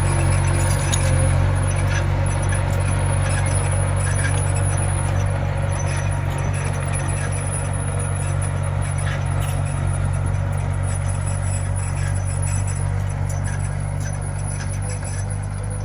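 Komatsu mini bulldozer's diesel engine running steadily, with scattered metallic clinks and rattles. The engine grows slightly quieter near the end.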